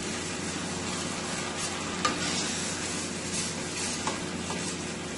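Curry masala sizzling steadily as it toasts in hot oil in a stainless steel pot, stirred with a wooden spoon. This is the bhunjay stage of a curry, frying the spices into the oil. A sharp click about two seconds in and lighter ones near four seconds.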